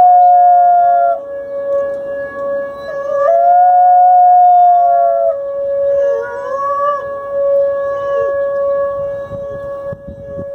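Dog howling in long drawn-out wavering notes, one after another, over a steady held tone that runs underneath.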